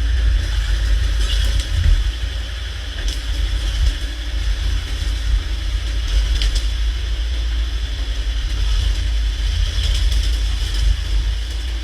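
An engine running with a steady low rumble, with a few short clicks over it.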